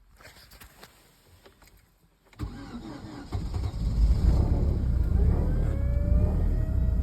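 Opel Astra H 1.8 four-cylinder petrol engine cold-starting in −25 °C frost: a few faint clicks, then the starter cranks briefly about two and a half seconds in and the engine catches within a second and keeps running steadily. A whine rises in pitch over the last couple of seconds.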